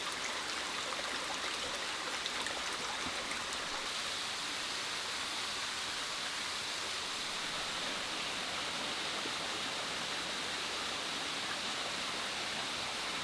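Steady rushing of flowing water, with a constant high-pitched drone above it and a few faint ticks in the first few seconds.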